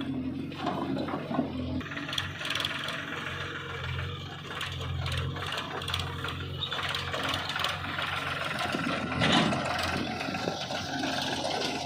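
Diesel engine of a heavy machine such as a JCB loader or tractor running, its pitch holding steady while its level swells and eases, with metallic rattling and clattering over it and one louder knock about nine seconds in.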